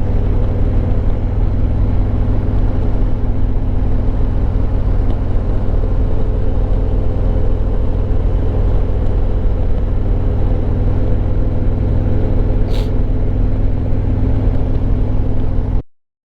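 Harley-Davidson Road Glide Limited's Milwaukee-Eight 114 V-twin running at a steady cruising speed, with an even, unchanging pitch and a single short click about three seconds before the end. The sound cuts off suddenly near the end.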